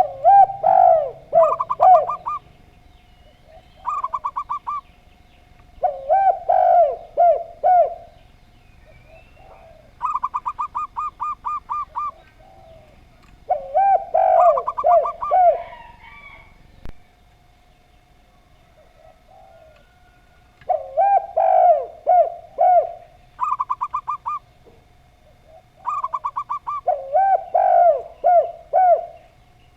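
Zebra dove and spotted dove calling back and forth. The spotted dove gives low, multi-note coo phrases of about two seconds. The zebra dove answers with quick runs of seven or eight short, higher coo notes. Over a faint steady hum, the two trade about nine phrases with a few seconds' pause between them.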